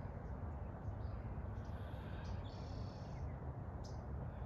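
Outdoor ambience: a steady low rumble, with faint, short high-pitched chirps of small birds about two to three seconds in.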